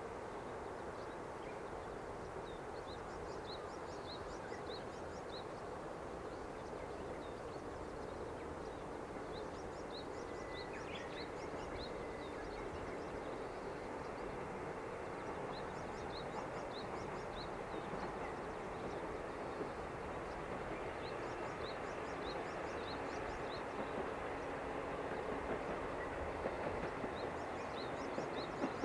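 Diesel train on a non-electrified rural line, its engine and wheel noise a steady rumble that slowly grows louder as it approaches, with wheel clicks on the rail joints in the last few seconds.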